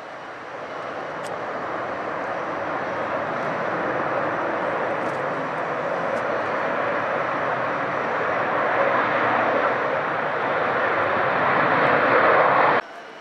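Airliner engines growing steadily louder as the aircraft comes closer, then cutting off suddenly near the end.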